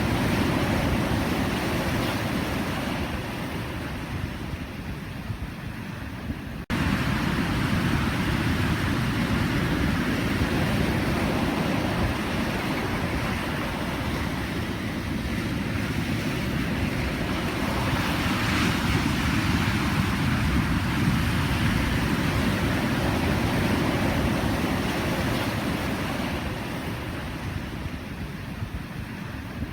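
Pacific Ocean surf: a continuous rush of breaking waves that eases and swells again as the sets come in. The sound drops out sharply for an instant about seven seconds in.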